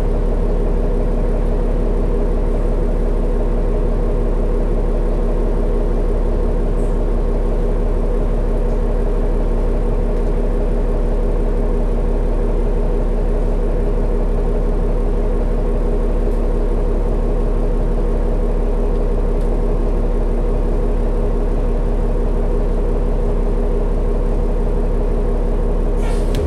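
Diesel engine of a New Flyer D60LFR articulated bus idling at a steady speed, heard from inside the cabin, with a deep steady rumble and a constant hum.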